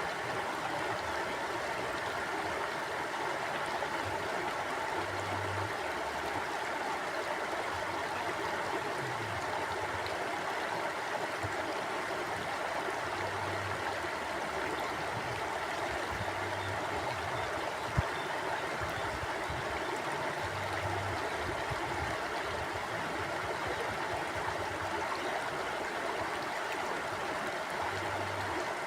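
Mountain stream flowing steadily, an even rush of water. A single sharp click stands out about two-thirds of the way through.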